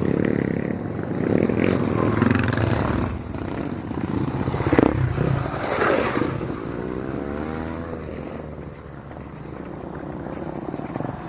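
Motorcycle engine running under the rider, its pitch rising and falling around the middle as the throttle is worked, with rattling and scraping from the bike on a muddy trail.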